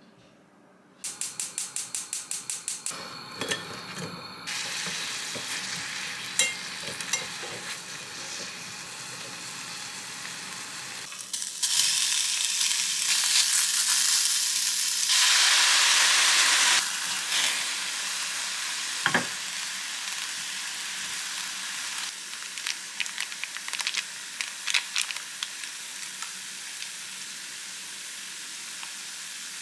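Sliced onion and chicken breast sizzling as they are stir-fried in a small pan, with chopsticks tapping and scraping against it; the sizzle swells loudest about halfway through. A quick run of even clicks comes near the start.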